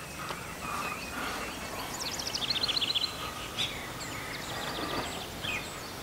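Outdoor ambience with a small bird singing: a rapid trill of quick, high notes about two seconds in, a fainter trill a little past four seconds, over a steady background hiss.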